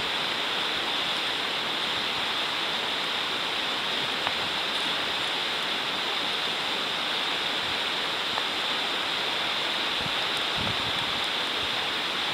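Food sizzling steadily in a hot iron frying pan over a campfire, a continuous even hiss with a few faint ticks.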